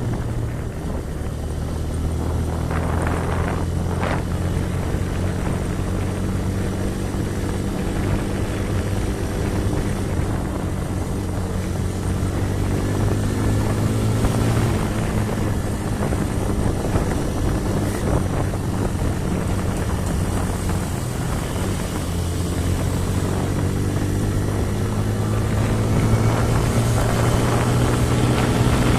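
An engine running steadily, its drone drifting slightly up and down in pitch.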